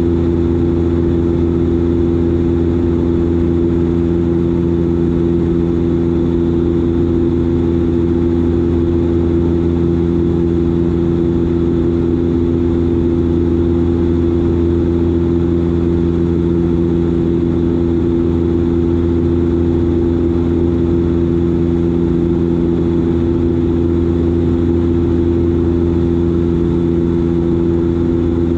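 Steady drone of a Dash 8 Q400's Pratt & Whitney PW150A turboprops and six-blade propellers in flight, heard inside the cabin: a deep, even rumble with a loud low hum of several steady tones that does not change.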